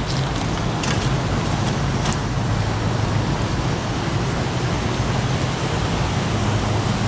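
Steady road-traffic noise with a low, steady engine hum underneath and a few faint clicks; no siren is sounding.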